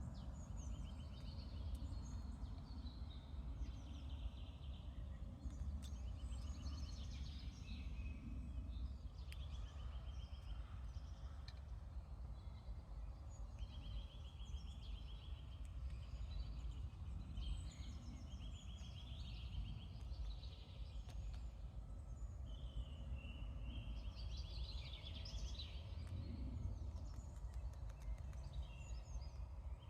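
Small songbirds singing in repeated short phrases, several of them fast trills, over a steady low rumble.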